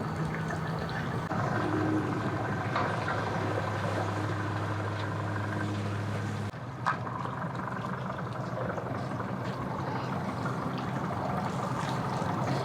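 A motor engine running steadily at low speed, a low even hum, with a single sharp click about seven seconds in.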